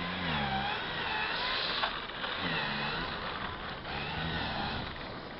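A car engine revving up and down several times, its pitch swelling and falling in repeated waves, over a steady hiss.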